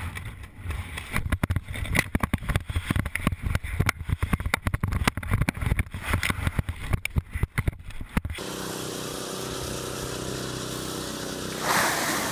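Strong wind buffeting on a skydiver's camera microphone, gusty and irregular. About eight seconds in it cuts off suddenly and gives way to a steady droning hum.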